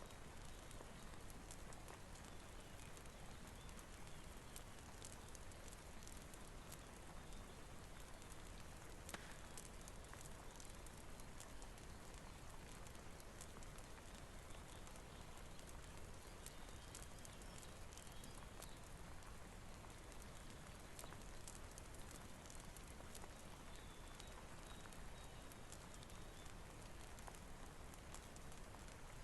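Faint steady rain hiss with a wood fire crackling: irregular small pops scattered throughout.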